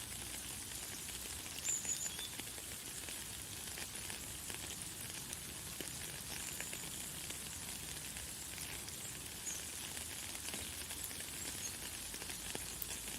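Light, fine rain falling steadily, a dense patter of small drop ticks. A few short, high bird chirps sound over it, the clearest about two seconds in.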